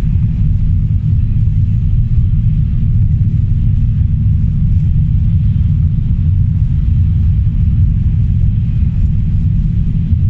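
A car being driven, giving a steady low rumble of engine and road noise that does not change.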